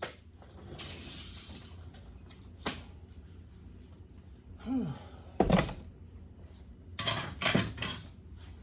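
Scattered metallic knocks and clanks of hand work on the truck, with a short falling squeak about halfway through. The loudest knock comes just past halfway, and a brief clatter follows near the end.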